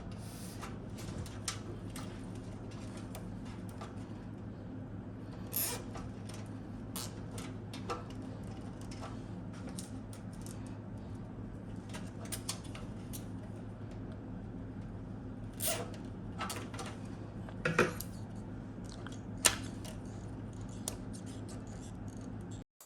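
Small clicks, taps and brief rustles of PC parts being handled and fitted, over a steady low hum. The loudest are a few sharper clicks and rustles in the second half, and the sound cuts off abruptly near the end.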